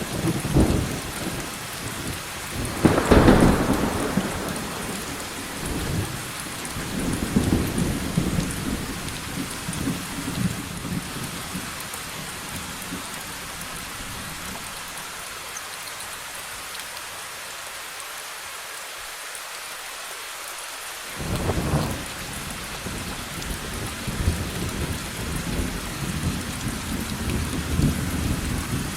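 Steady rain with thunder: a loud clap about three seconds in that rolls on in rumbles, then a spell of rain alone, then another clap about three-quarters of the way through followed by more rumbling.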